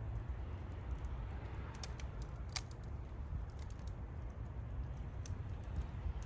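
Wood fire crackling: scattered sharp pops and snaps, one louder about two and a half seconds in, over a low steady rumble.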